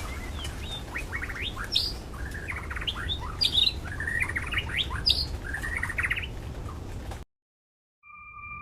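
White-rumped shama singing a run of rapid, varied phrases of trills and whistled notes, which cuts off suddenly about seven seconds in.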